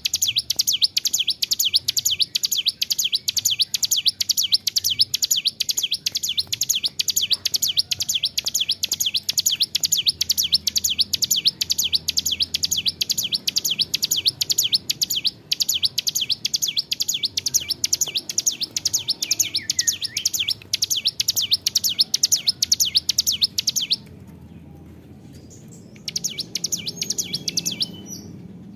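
A ciblek gunung, a mountain prinia, singing a long unbroken string of rapid, high, evenly repeated notes. It breaks off about 24 seconds in and starts again two seconds later.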